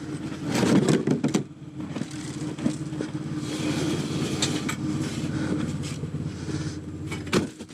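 Minivan engine running steadily, with a burst of loud clunks and rattles about a second in and a sharp knock near the end.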